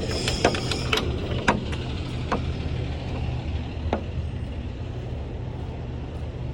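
Semi truck's diesel engine idling steadily, with a few sharp clicks and knocks in the first few seconds.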